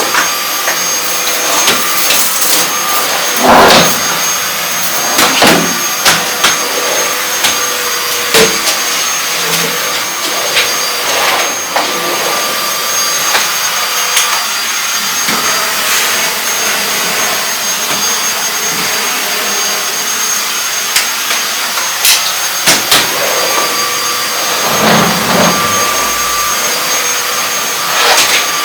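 Vacuum cleaner running steadily with a constant hiss and whine, with occasional knocks and bumps as it is moved around.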